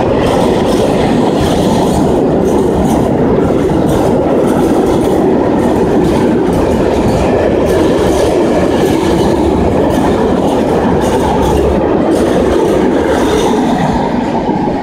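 Open freight wagons rolling past close by: a steady, loud rumble of steel wheels on rail with irregular clattering and clicking. It eases off near the end as the last wagon goes by.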